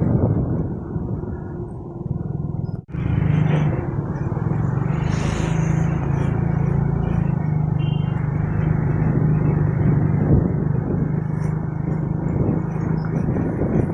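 Motorcycle running at road speed, a steady engine hum mixed with wind and road noise. The sound drops out for an instant about three seconds in.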